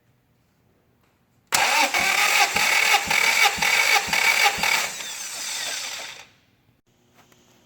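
Toyota 3S-GE four-cylinder engine turned over by its starter motor for a compression test, cranking without firing. There is a regular pulse about twice a second, and it winds down and stops after about five seconds.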